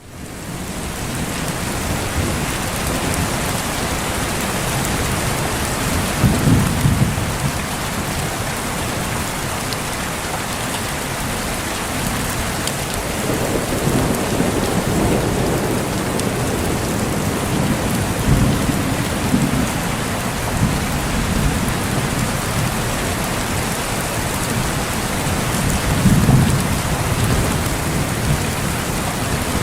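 Heavy rain falling steadily, fading in at the start, with low rolls of thunder rumbling four times; the loudest rolls come about a quarter of the way in and near the end.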